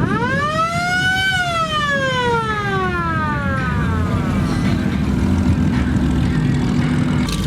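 A siren winds up once, rising over about a second, then winds down slowly over the next two seconds, over the low rumble of idling vehicle engines.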